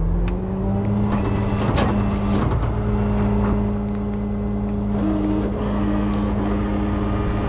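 Heavy tow truck's diesel engine stepping up to a higher speed and holding steady there, with a few metal clanks about two seconds in.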